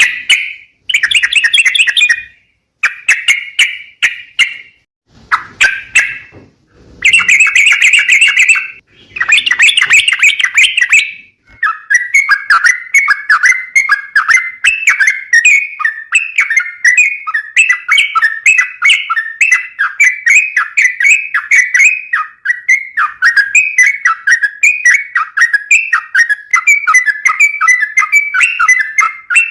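Yellow-vented bulbul (trucukan) singing: a few loud, separate phrases with short pauses between them, then from about eleven seconds in an unbroken run of rapid chattering notes.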